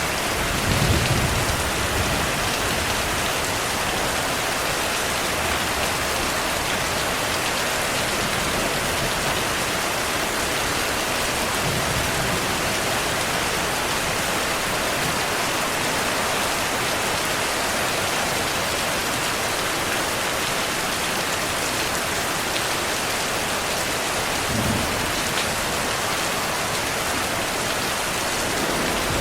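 Heavy, steady rain. Low rolls of distant thunder come in about a second in and again near the end.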